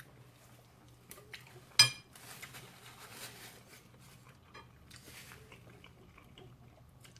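Eating sounds: a utensil clinks once against a dish about two seconds in, followed by faint chewing.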